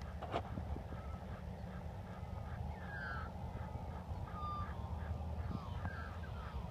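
Birds calling: scattered short chirps and a few quick falling notes, over a steady low rumble.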